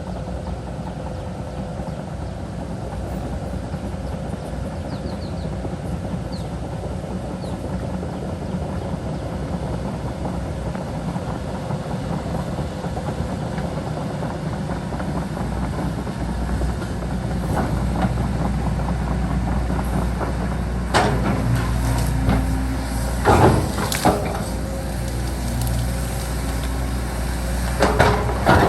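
Heavy diesel earthmoving machinery running steadily with a low engine rumble, growing louder about two thirds of the way through. Several sharp metallic clanks and knocks come near the end.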